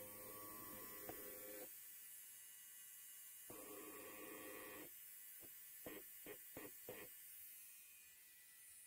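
Electric hair clipper buzzing in short runs: one burst cuts off early, a second runs for about a second and a half, then four or five quick stop-start buzzes follow.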